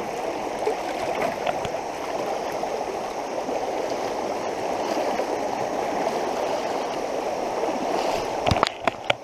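Fast-running, flood-swollen creek water rushing steadily, with a few sharp knocks near the end.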